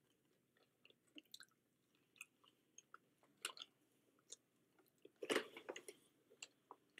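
Faint chewing of french fries, with soft mouth clicks and small crunches scattered through, loudest about five and a half seconds in.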